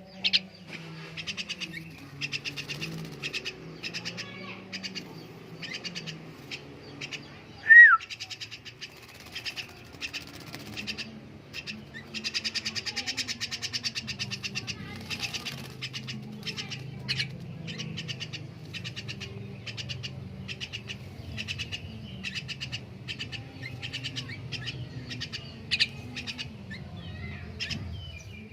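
Javan myna bathing: wings fluttering in dense runs of rapid beats, with chirps. About eight seconds in comes one loud, short, falling whistle.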